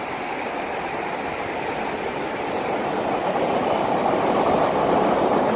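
Class 313 electric multiple unit running non-stop through the station: a steady rumble of wheels on rail that slowly grows louder.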